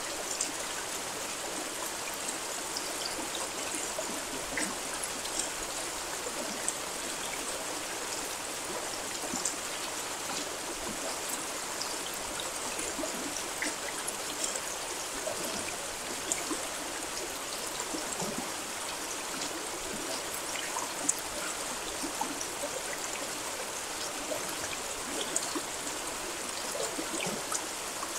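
Steady rain: an even hiss with small drop ticks scattered through it.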